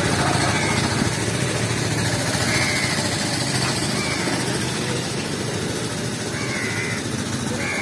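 A motorcycle engine idling steadily, easing off slightly after about five seconds, with crows cawing faintly a few times.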